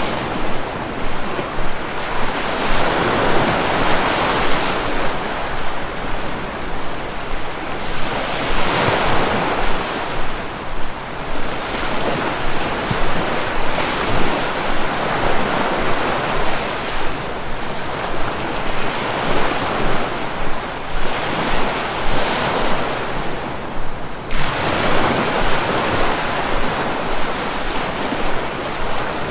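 Sea waves washing ashore: a steady rush of surf that swells and ebbs every few seconds.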